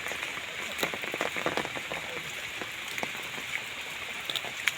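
Steady rain falling: a constant hiss with many separate drop hits ticking through it.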